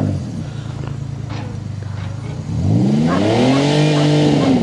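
Front half of a cut-down Pontiac car, its engine running low and steady, then revved up about two and a half seconds in, held high, and easing off near the end.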